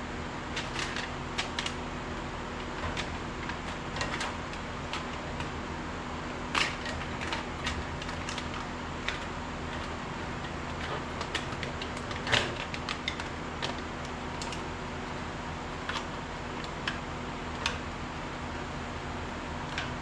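Irregular light clicks and taps, such as parts or tools being handled during installation work, over a steady low hum; the sharpest taps come about a third of the way in and again just past halfway.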